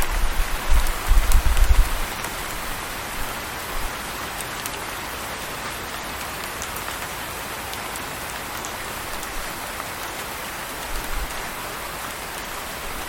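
Steady rain falling, with the patter of individual drops. Low rumbles swell during the first two seconds and again briefly near the end.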